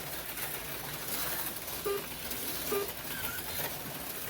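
HO-scale slot cars running around the track during a race, a steady buzzing hiss, with two short beeps a little under a second apart near the middle.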